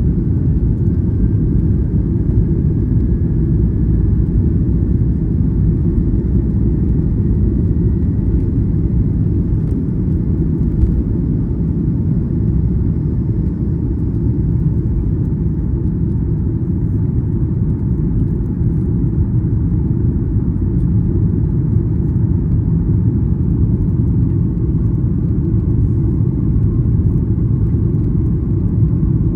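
Cabin noise of a Boeing 737 MAX 8 with CFM LEAP-1B engines: a loud, steady rumble with a faint engine whine that rises in pitch over the first several seconds, then holds steady.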